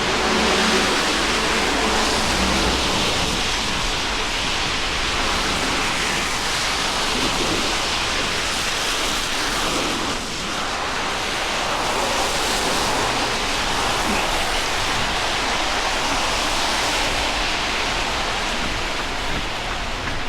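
Steady hiss of rain falling on a city street, with a low hum in the first couple of seconds.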